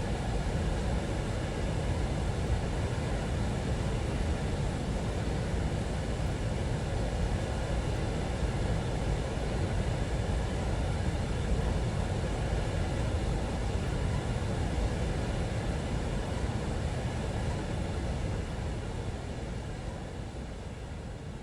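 Train passing with a steady low rumble that starts to fade over the last few seconds.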